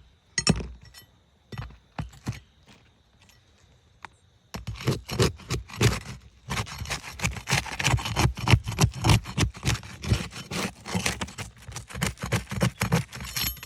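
Roof shingles being scraped and worked loose with a tool. There are a few separate knocks at first, then from about four seconds in a long run of rapid scraping strokes.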